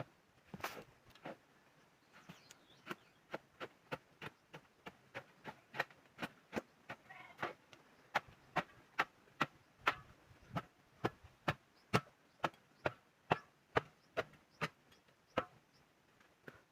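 A hand tool chopping in a steady rhythm, about two blows a second, each a sharp strike. The blows stop shortly before the end.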